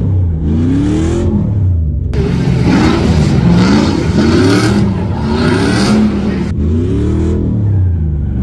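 BMW E46 drift car's engine being revved up and down over and over as the car drifts. A loud rushing hiss joins in from about two seconds in until about six and a half seconds.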